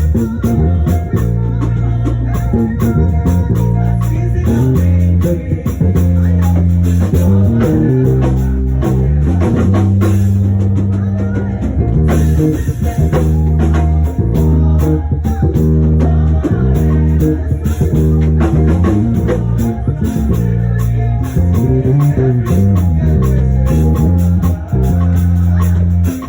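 Worship band playing an instrumental passage: a prominent bass guitar line moving through held low notes over a steady drum beat, with guitar.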